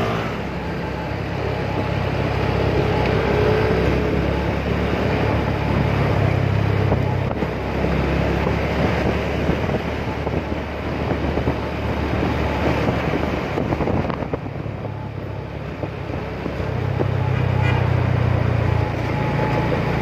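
Motorcycle engine running while riding, its note rising and falling a few times with the throttle, under wind noise on the microphone.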